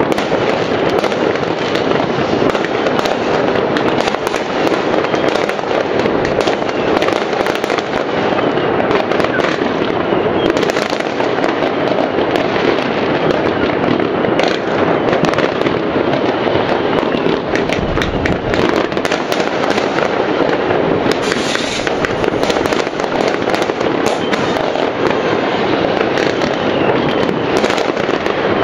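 Many fireworks and firecrackers going off at once all around: a dense, unbroken crackle of countless pops and bangs.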